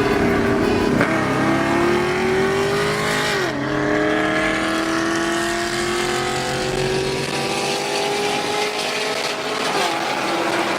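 Car engine pulling hard through the gears. Its pitch drops at upshifts about a second and three and a half seconds in, then climbs slowly in the higher gear and dips again near the end.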